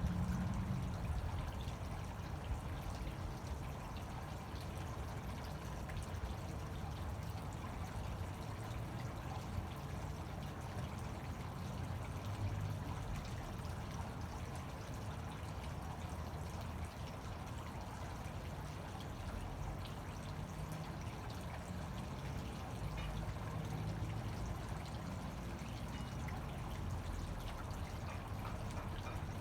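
Fountain water pouring and splashing steadily.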